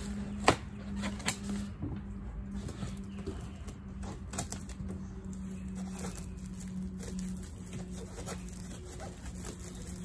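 Plastic stretch wrap and packing tape on a cardboard box crinkling and tearing as it is pulled and cut open with scissors, with irregular sharp clicks and snips; the sharpest comes about half a second in.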